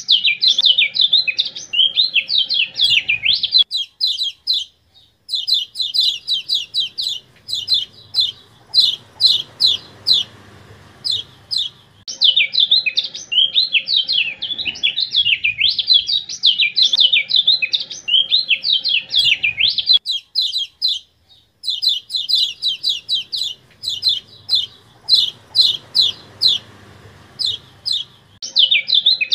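Kecial kuning (Lombok white-eye) song, edited into a repeating training track: fast, high chattering warbles alternate with runs of quick, sharp repeated notes. There are short breaks about four seconds in and again about twenty seconds in.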